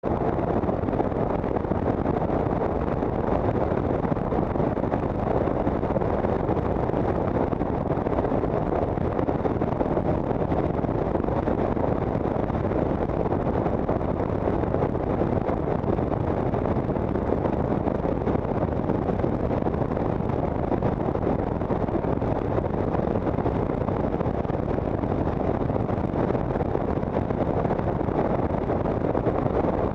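Steady road noise and wind buffeting the microphone of a moving vehicle, with no single passing vehicle standing out.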